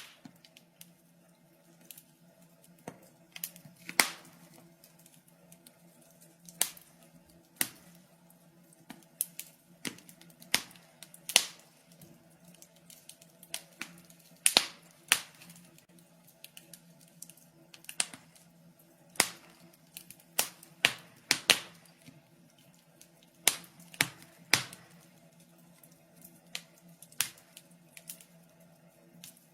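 Wood fire crackling in a fireplace: irregular sharp pops and snaps, some loud and some faint, scattered unevenly with short gaps.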